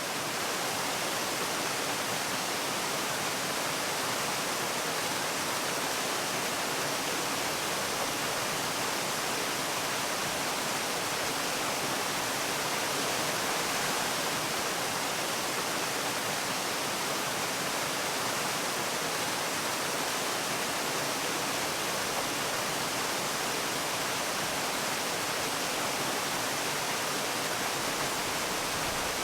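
Waterfall's falling water rushing steadily, an even hiss with no breaks.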